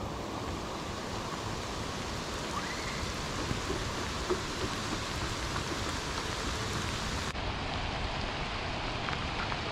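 Steady rain falling, a continuous hiss with a few sharper drop ticks now and then.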